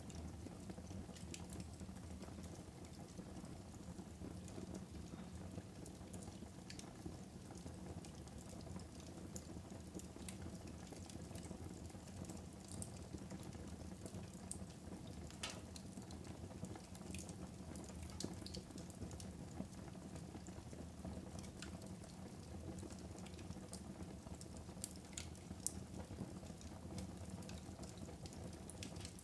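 Wood fire burning in a fireplace: a steady low rush with scattered crackles and pops, the sharpest few near the end.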